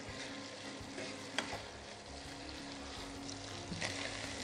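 Pieces of chicken, fish, sausage and prawns sizzling steadily in hot coconut oil as a wooden spatula stirs them around the pan, with one short knock about a second and a half in.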